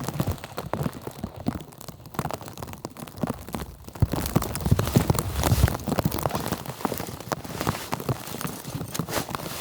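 Footsteps crunching through snow: an uneven run of crackly crunches and soft thuds, heavier from about four seconds in.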